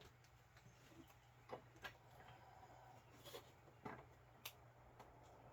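Near silence: a faint steady low hum with a handful of faint, scattered clicks and taps.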